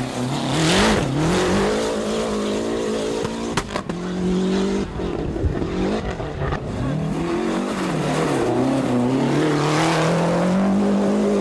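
Rally car engine under hard acceleration, its pitch climbing and dropping again and again as it goes up through the gears and lifts off. There is one sharp crack about three and a half seconds in, and a long steady climb near the end.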